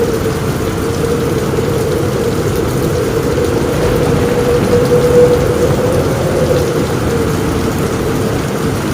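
Rain falling steadily and heavily on a roof, with a continuous low rumble underneath and a faint steady tone in the middle of the sound.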